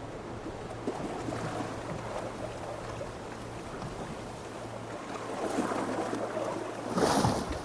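A boat on the open sea: water washing against the hull and wind, over a low steady hum. A louder rush of water comes about seven seconds in.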